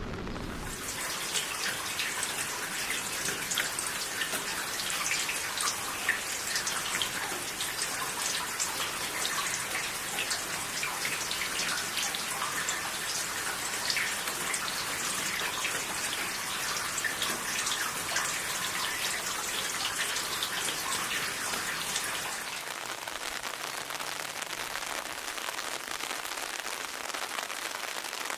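Steady rain, with many individual drops pattering on a hard surface as a dense crackling hiss.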